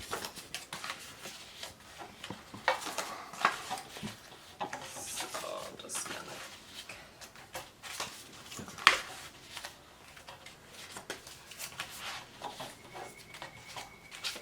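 Cardstock being folded back and forth into an accordion and creased, with rustling and crinkling and a few sharp snaps, the loudest about nine seconds in.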